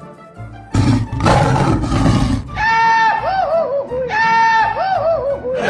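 A loud, rough roar. It is followed by a comic pitched sound effect, a held note then bouncing falling notes, played twice in exactly the same way.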